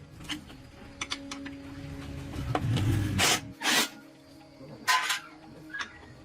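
Hand tools working on motorcycle parts: scattered clicks and light scraping, then a few loud, short scraping strokes about three seconds in and again near five seconds.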